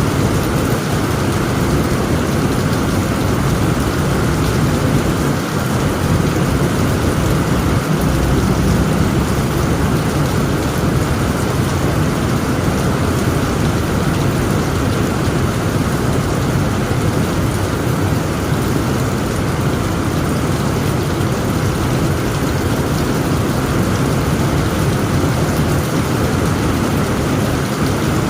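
Heavy rain falling steadily on a tent roof, with a low rumble of thunder underneath.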